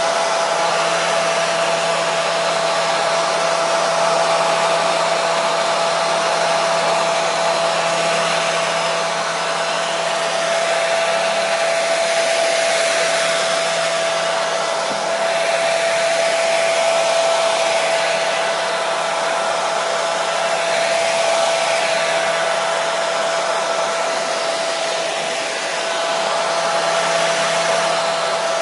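Hair dryer running continuously: a steady rush of blown air with a constant motor hum.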